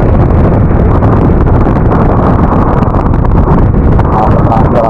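Steady loud wind rush on the microphone of a rider on a moving Yamaha NMAX scooter, mixed with road noise.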